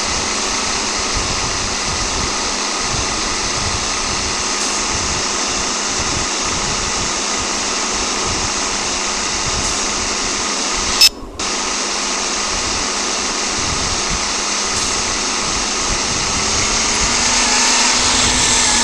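A motor vehicle engine running steadily under a wash of noise, its pitch climbing slowly near the end. A sharp click and a short dropout about eleven seconds in.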